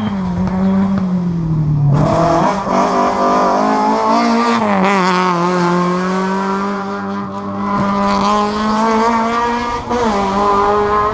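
Historic rally car's engine running hard at high revs close by on a special stage. The revs drop and climb again about two seconds in, near five seconds and near the end.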